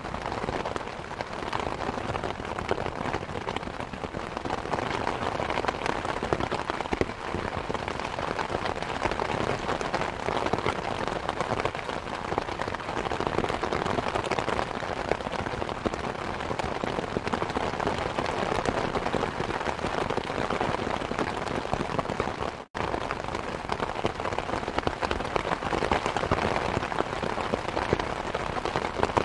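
Steady rain mixed with the crackling of a wood fire, with small pops scattered throughout. The sound cuts out for an instant about three-quarters of the way through.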